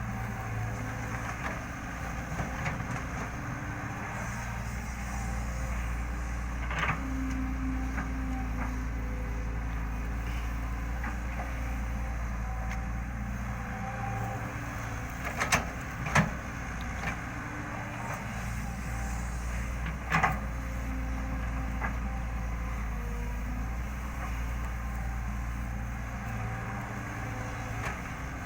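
Excavator's diesel engine running steadily under work, with a few sharp knocks about a quarter, halfway and two-thirds of the way through.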